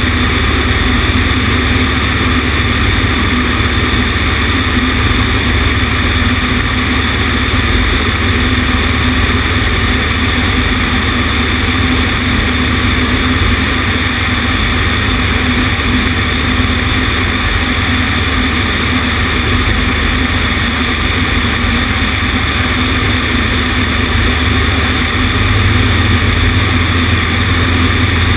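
Cessna 150's Continental O-200 four-cylinder engine and propeller running steadily, heard from a wing-mounted camera with heavy wind rush over it. The engine note steps up slightly near the end.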